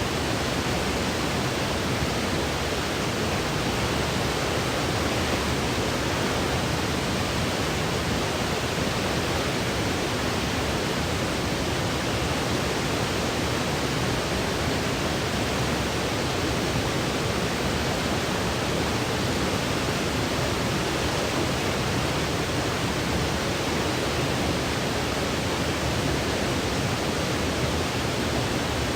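Steady artificial white noise: an even, unchanging hiss spread across low and high pitches, with no events or variation.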